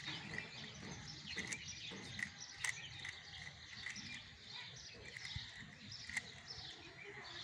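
Birds chirping faintly in the background with many short repeated chirps, broken by a few soft sharp clicks.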